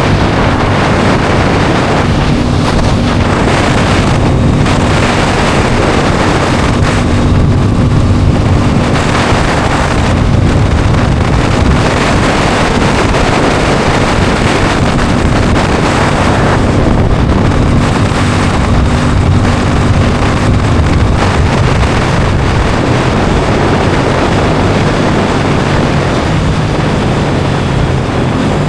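Heavy wind rushing over the microphone on a moving Aprilia Tuono 660 Factory, with the bike's 660 cc parallel-twin engine running underneath at a steady note that steps to a new pitch a few times.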